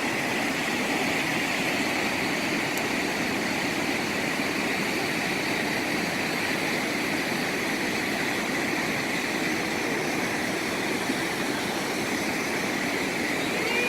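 Large waterfall pouring, a steady, dense rush of falling water.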